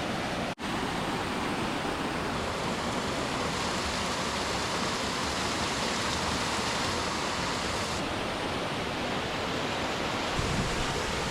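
Mountain stream rushing over rocks: a steady, even rush of water that cuts out for an instant about half a second in.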